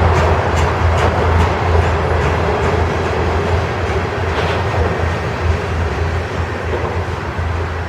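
Freight train's loaded grain cars rolling past, a steady rumble of steel wheels on rail. Wheel clicks over the rail joints come at a regular beat in the first couple of seconds, then thin out as the rumble eases slightly.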